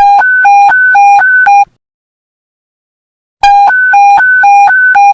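Police panic-button alert tone: a loud two-tone beep alternating low and high pitch, about four tones a second, sounding in two bursts of under two seconds each, the second starting about three and a half seconds in.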